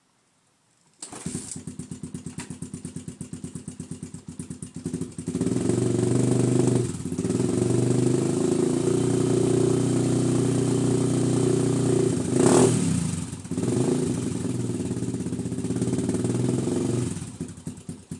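The 1987 Honda TRX250X's single-cylinder four-stroke engine is kick-started from cold and catches on the first kick about a second in. It idles with a fast, even beat, is then held at higher revs with brief dips and one sharp blip, and drops back to idle near the end.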